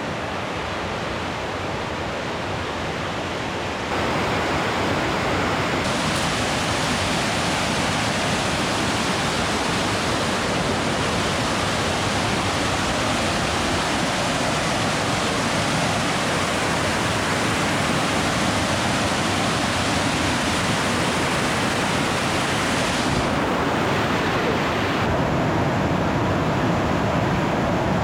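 Waterfall's rushing water: a steady noise with no pitch, stepping louder about four seconds in.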